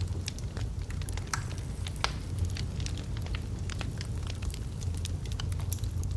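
Wood fire burning in a fireplace, with a steady low rumble of the flames and frequent irregular sharp crackles and pops from the logs.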